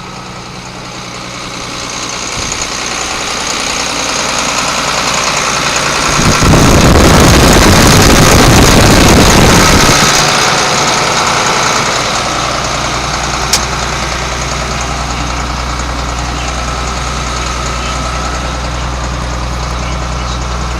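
A John Deere 4640 tractor's six-cylinder diesel engine runs, growing louder to a peak about six to ten seconds in, then settling back to a steady idle. There is a single sharp click a few seconds after it settles.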